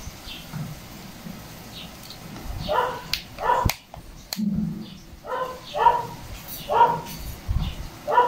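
A dog barking: about six short barks, mostly in pairs, starting about three seconds in.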